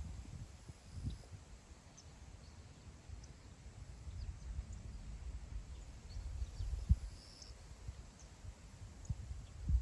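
Wind gusting over open grassland and buffeting the microphone with a low rumble that swells and eases, hitting hardest about seven seconds in and again at the end. Faint, short high bird chirps come now and then over it.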